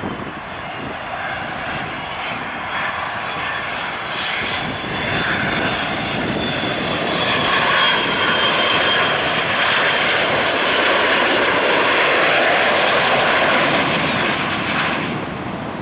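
Jet airliner's engines passing close by: the noise swells to a peak about halfway through, carries a thin whine, and fades near the end.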